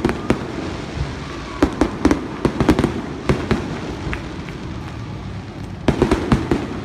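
Fireworks bursting overhead in rapid volleys of sharp bangs and crackles, with clusters of reports around two to three seconds in and again near the end, over a steady rumble of continuing bursts.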